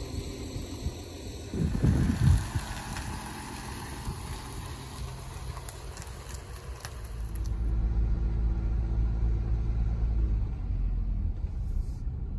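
Volkswagen Amarok ute with its engine running, a steady low hum that grows louder about eight seconds in as it drives off. A couple of heavy thumps come about two seconds in.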